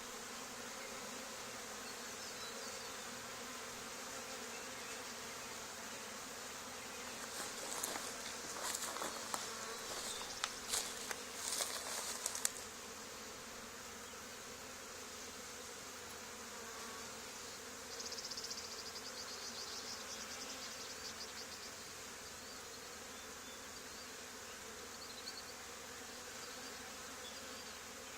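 Honey bee swarm buzzing steadily. Between about 8 and 12 seconds in come louder crackling rustles, and about 18 seconds in a louder, higher buzz lasts a couple of seconds.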